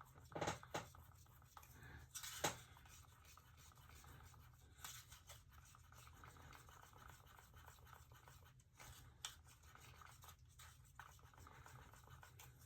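Near silence with faint scraping and a few light taps as small crafting items are handled.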